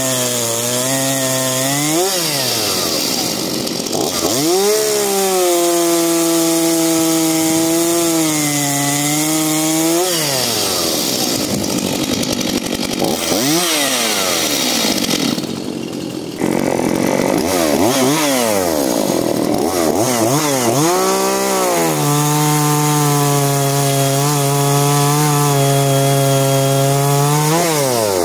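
Two-stroke chainsaw cutting wood at full throttle. The engine note drops back toward idle and revs up again several times between cuts.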